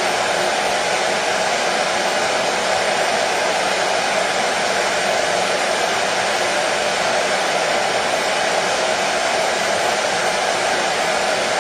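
Hair dryer running steadily: a continuous, even whoosh of blown air with a faint motor hum, used as white noise to soothe a baby to sleep.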